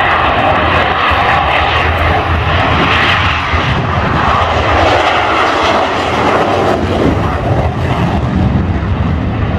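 A fixed-wing airplane's engine running as it flies past, steady and loud, swelling and easing a little and dropping off slightly near the end.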